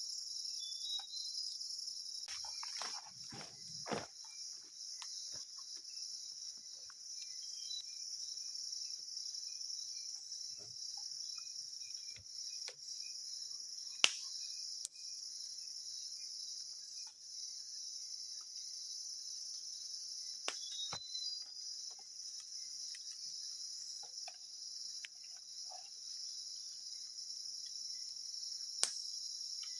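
Crickets and other night insects chirring steadily in high, continuous bands. A few seconds in there is some rustling and a soft knock, and two sharp clicks stand out, one about halfway through and one near the end.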